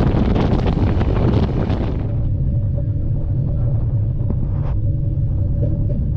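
Low rumble of a moving train heard from on board, with wind buffeting the microphone at an open window. About two seconds in, the wind noise drops away, leaving the rumble and a faint steady hum.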